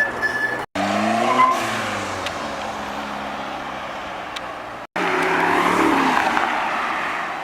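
Supercar exhausts revving and accelerating in short segments, broken by two abrupt cuts. After the first cut the engine note falls away. After the second, a loud, rough engine and exhaust roar swells and then eases off.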